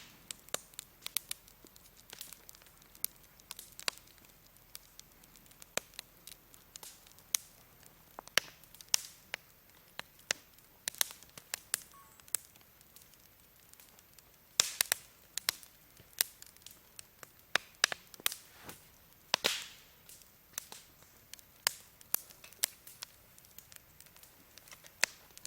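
Firewood burning in a campfire, crackling with irregular sharp pops and snaps over a faint hiss, a few louder pops with a brief hissing tail around the middle.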